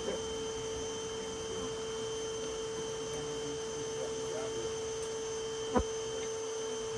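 Steady, even hum at one pitch, with a single sharp tap about six seconds in.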